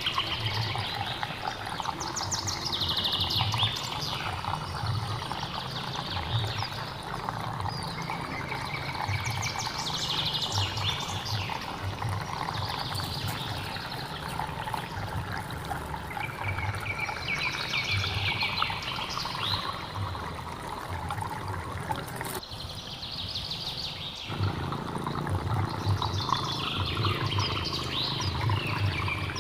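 Steady rushing of flowing stream water, with a bird singing short, rapid trilled phrases again and again every few seconds over it.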